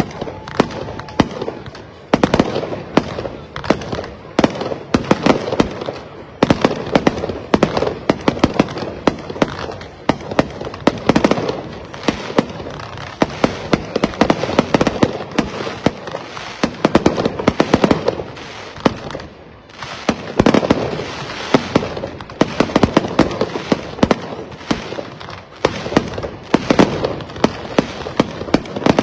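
Rapid, irregular sharp bangs and pops, several a second, over a continuous crackling haze.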